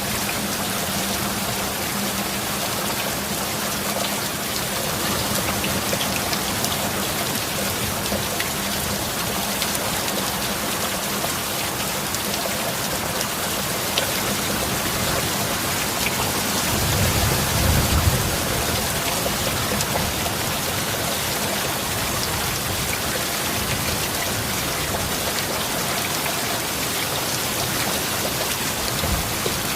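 Steady rain falling, with a brief low rumble of thunder swelling about seventeen seconds in.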